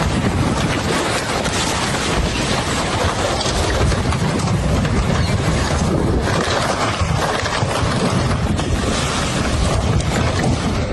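Floodwater rushing fast, a loud steady roar of noise with a rumbling low end.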